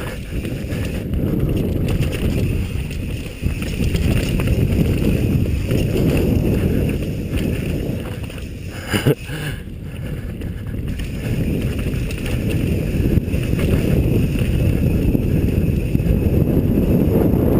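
Wind buffeting the camera microphone during a fast trail descent, a steady low rumble with no engine note. A single sharp knock about nine seconds in.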